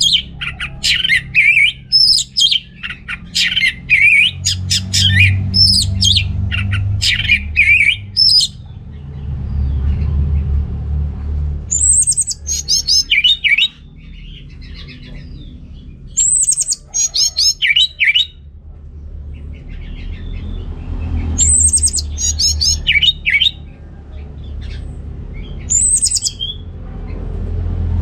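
Orange-headed thrush singing: a run of quick, varied phrases for the first eight seconds or so, then shorter phrases every four to five seconds, each opening with a high note sliding down. A low rumble runs underneath.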